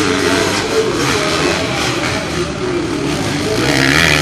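Motorcycle engines running and revving, mixed with the voices of a crowd.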